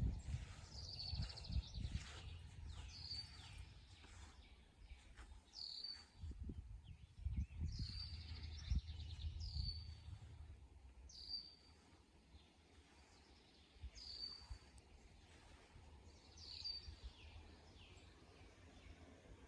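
A songbird singing short, high, down-slurred phrases over and over, about one every one and a half seconds, some of them ending in a buzzy trill. Low rumbles come and go in the first few seconds and again near the middle.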